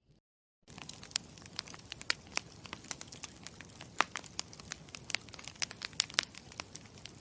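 Campfire crackling: irregular sharp pops and snaps of burning wood over a soft hiss. It comes in from dead silence a little under a second in.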